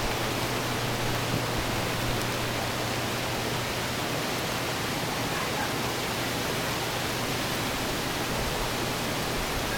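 Steady rush of floodwater, a continuous even hiss, with a low steady hum underneath.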